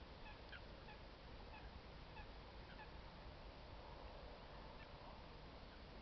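Faint, distant bird calls: short pitched notes repeating roughly once a second, thinning out in the second half, over a steady low background noise.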